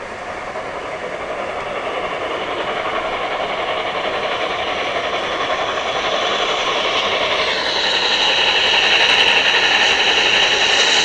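Train approaching and growing steadily louder, with a high-pitched whine joining in about two-thirds of the way through.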